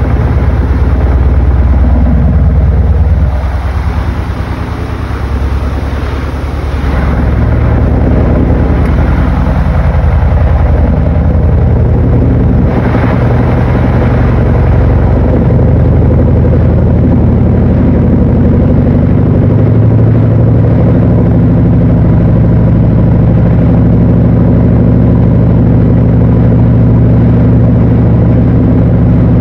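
Panasonic NA-FA80H8 top-loading washing machine running: the drive motor hums and shifts in pitch for the first dozen seconds or so, then settles into a steady hum that grows stronger about twenty seconds in.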